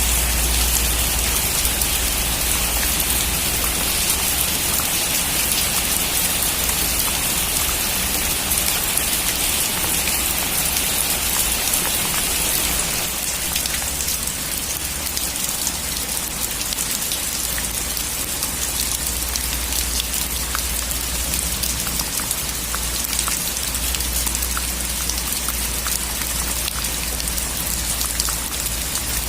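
Heavy rain falling on a metal roof: a dense, steady patter full of sharp individual drop ticks over a low rumble, easing slightly about halfway through.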